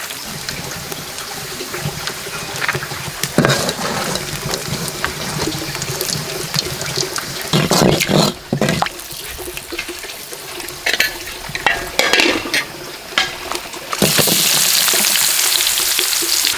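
Scattered clinks and knocks of cookware being handled, with water splashing and sloshing. Near the end a steady rush of flowing water starts abruptly and continues.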